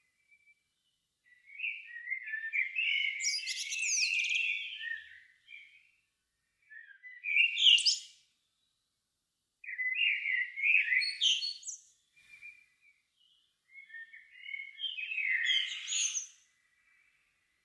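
A songbird singing at dusk in four separate phrases of quick warbles and chirps, the first and longest lasting about four seconds, with short silent pauses between phrases.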